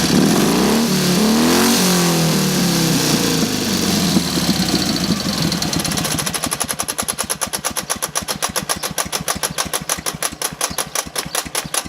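Dnepr motorcycle boxer-twin engine revving up and down, then dropping back to a slow, even knocking beat of about seven or eight strokes a second. The knock is the fault being shown, placed by the owner in the area of the 'утятница'.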